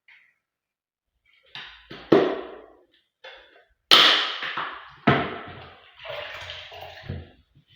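Household knocks and bangs: about five sharp hits in a few seconds, as of things being set down or doors shut, with a short rushing noise near the end.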